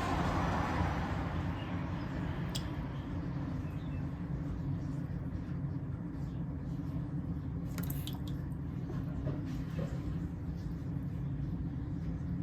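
A steady low background hum, with a few faint clicks about two and a half seconds and eight seconds in.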